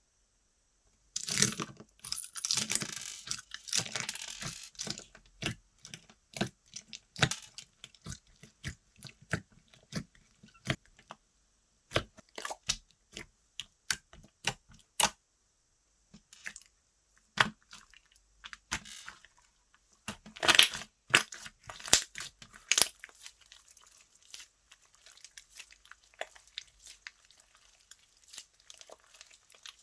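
Slime being squished and stretched by hand, with a run of small crackling pops and clicks. Dense crackling about a second in and again about two-thirds through, separate clicks between, faint crackle at the end.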